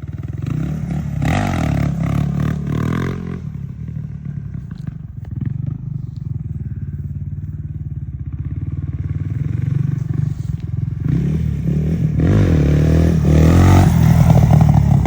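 Suzuki DR350 single-cylinder four-stroke dirt bike engine revving up hard, then dropping back to run quieter for several seconds before it is revved up again, loudest near the end.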